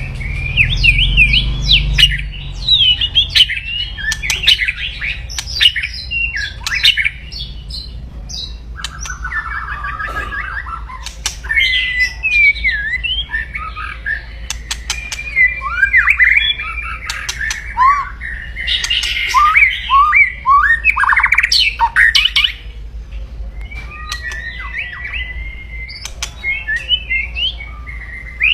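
White-rumped shama (murai batu) singing its aggressive 'kretekan' song: a nonstop run of sweeping whistles and rapid trills mixed with harsh crackling clicks. A low hum runs underneath and is stronger in the first couple of seconds.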